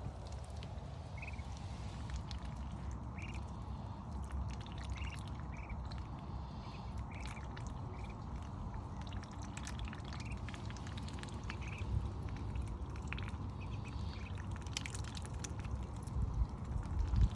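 Three-week-old ducklings peeping in short high calls, roughly one every second, over steady rain with many drips and taps.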